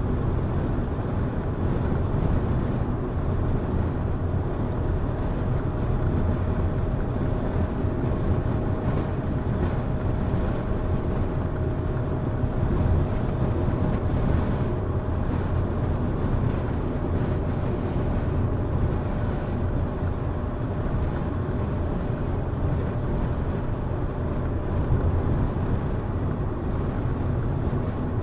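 Car driving steadily along a road: a continuous low rumble of engine, tyres and wind. A faint steady whine rises out of it for several seconds in the middle.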